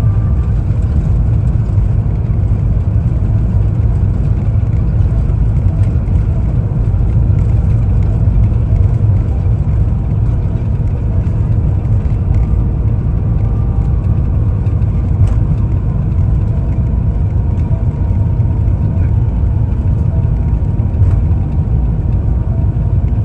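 Steady, loud low rumble inside the cabin of an Airbus A350-900 airliner during its landing, with a few faint ticks.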